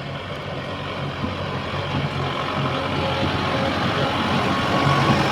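Kubota 4x4 tractor's diesel engine running steadily, growing gradually louder.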